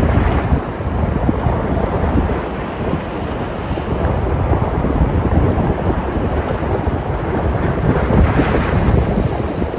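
Sea surf: waves breaking and washing, with a rise about eight seconds in as a larger wave breaks. Wind buffets the microphone throughout.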